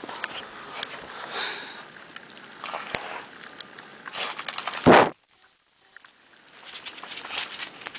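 Greyhounds scuffling and running about in deep snow, a noisy rustle with scattered short strokes. About five seconds in there is one loud sharp rustle, followed by a second of near silence.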